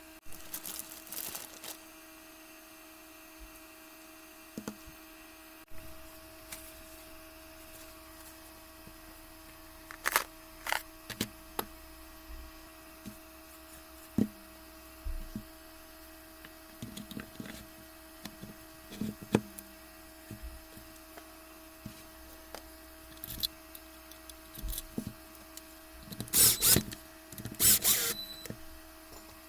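Tools and parts being handled on a workbench: scattered clicks and knocks over a steady hum, with two louder rasping bursts near the end.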